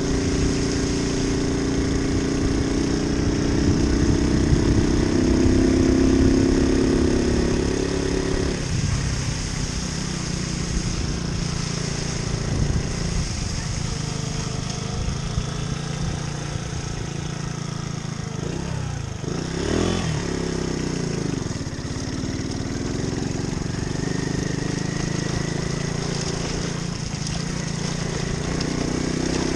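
Moped engine running under way, its note strong and steady for about eight seconds, then quieter; around twenty seconds in it sweeps down and back up. A steady high hiss runs under it.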